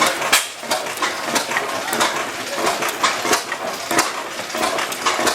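Hit-or-miss stationary engine running, a clatter of sharp irregular clicks and knocks from its moving parts.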